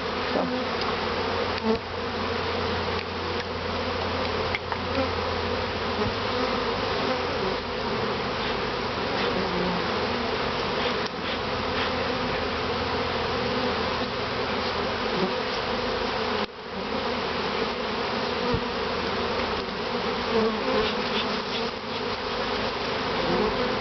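Loud, steady buzzing of a large number of honey bees flying around an opened top bar hive. The bees are agitated and defensive: they are not very happy and are stinging through the beekeeper's jacket.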